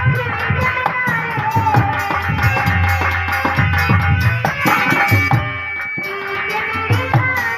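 Live Indian folk devotional music: a hand drum beats a steady, fast rhythm under a wavering melody line, with one note held for about a second around the middle and a brief lull just before the end.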